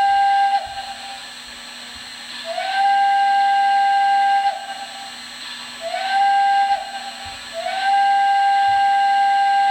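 MTH Proto-Sound 3.0 steam whistle sound effect played through a model locomotive's speaker, in separate blasts: one ending just after the start, then a long blast, a short one and another long one. Each blast swoops up briefly into one steady pitch, and a steady hiss runs between the blasts.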